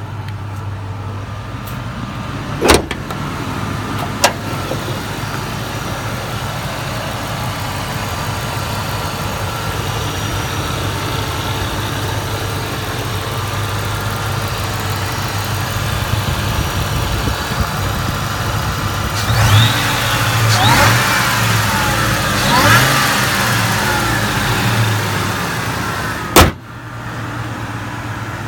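Engine of a 2003 Harley-Davidson edition Ford pickup running steadily, with a few sharp knocks and a louder stretch of shifting, gliding tones about two-thirds of the way through.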